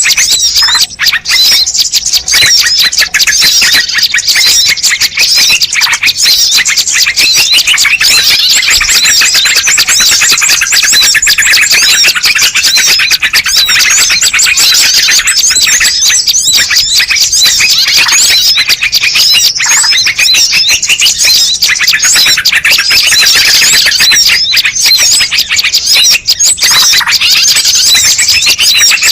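Dense, unbroken twittering of many small birds, a loud bird-lure (pikat) recording made to draw in wild birds.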